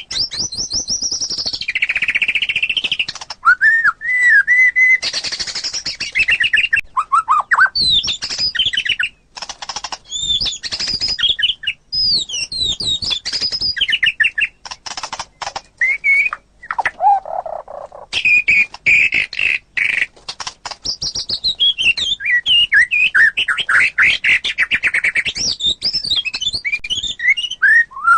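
White-rumped shama (murai batu) singing a long, varied song of whistled phrases, quick rising and falling sweeps and trills, laced with rapid clicking notes. About two thirds of the way through comes a lower, slower phrase.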